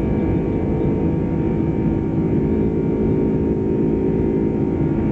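Steady cabin noise inside a Boeing 747-400 in flight: the even drone of its engines and the airflow past the fuselage, with a few steady hums running through it.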